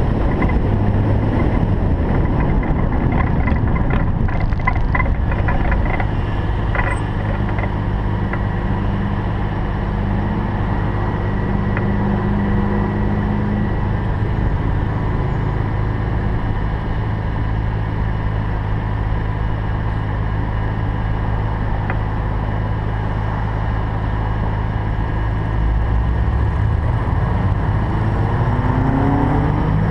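Toyota Supra with a single-turbo setup, its engine running at a steady note, then rising in pitch near the end as it revs up and accelerates.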